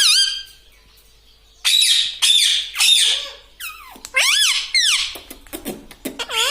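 Indian ringneck parrot calling, several high squawky calls with quick up-and-down pitch glides, after a short pause about a second in.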